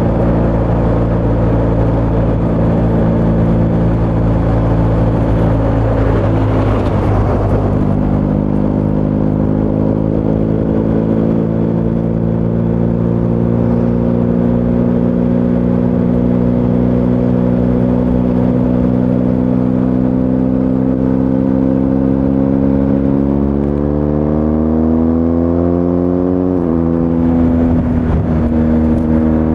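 BMW R1250 GS Adventure's boxer-twin engine running through an Akrapovič titanium slip-on exhaust while riding. The note holds steady, changes with a gear shift about seven seconds in, then climbs under acceleration, drops sharply at an upshift near the end and climbs again.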